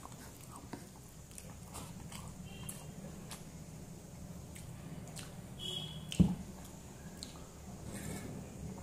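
Close-miked chewing and mouth sounds of a person eating rice and vegetables with small wet clicks and smacks. There is one sharp knock about six seconds in.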